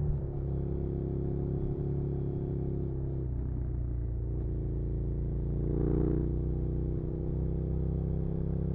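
Suzuki SV650's V-twin engine pulling steadily while riding. Its note dips briefly about three seconds in, then climbs gently and grows a little louder.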